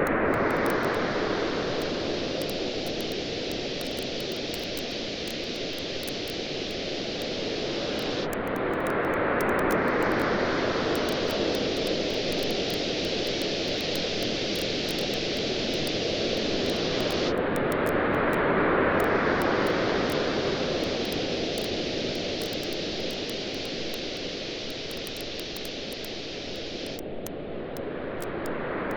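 Waves on a beach washing in and easing back about every nine to ten seconds over a steady rush of surf, with faint, scattered crackles from a wood bonfire.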